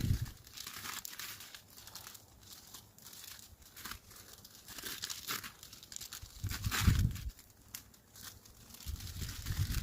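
Rustling and crinkling with scattered crackles and a few dull thumps, near the end heavier.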